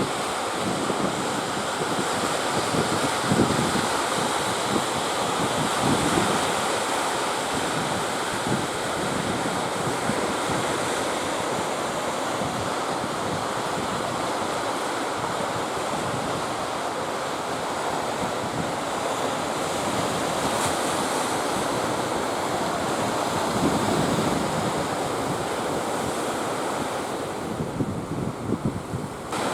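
Ocean surf rushing steadily, with strong wind buffeting the microphone in irregular low rumbles.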